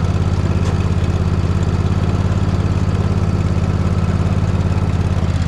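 Poulan riding mower's engine running steadily at a constant speed, a low even hum.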